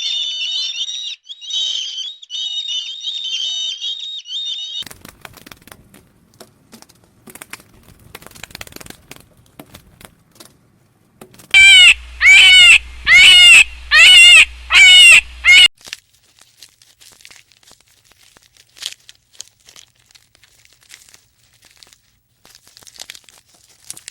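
Farm animals calling. First comes a steady high chirping. Then, about halfway through, there is a run of about seven loud, pitched calls in quick succession.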